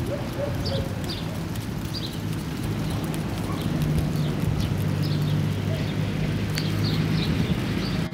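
Small birds chirping in short, repeated high notes over a steady low hum and a wash of outdoor noise.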